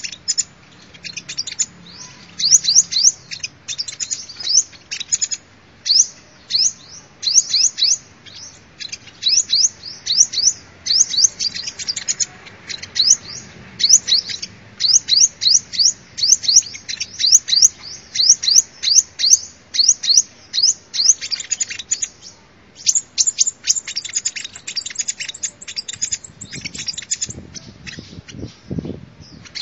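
Sunbird song: thin, high chirping notes in quick bursts, repeated over and over and denser near the end. A few low thuds come near the end.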